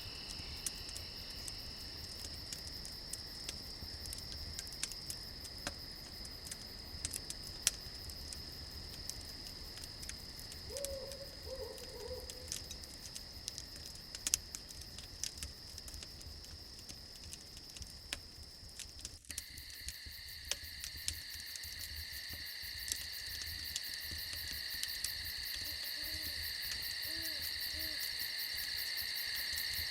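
Crickets chirring steadily over scattered crackles and pops from a campfire, with a few short low calls from a night animal a little past ten seconds in and again near the end. The cricket chorus changes abruptly about two-thirds of the way through.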